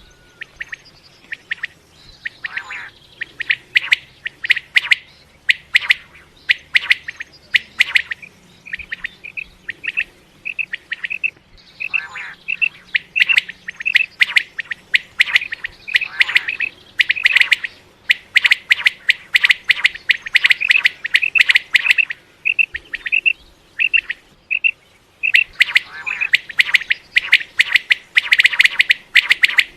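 Common quail calling: short, sharp notes repeated over and over in quick succession, with denser runs of rapid notes several times.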